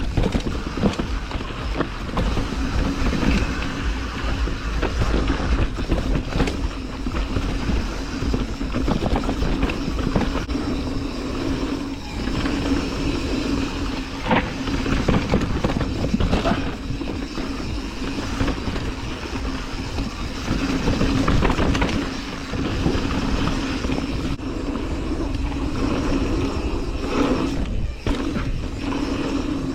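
Lapierre mountain bike rolling fast down a dirt trail: steady tyre and wind noise with frequent knocks and rattles as it runs over bumps.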